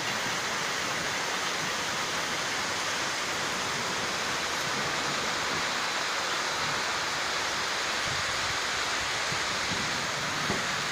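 Heavy rain falling in a steady downpour, a dense even hiss with no breaks.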